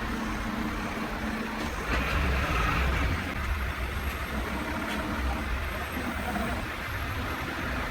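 Truck engine running steadily, a low rumble that swells a little about two seconds in and then settles.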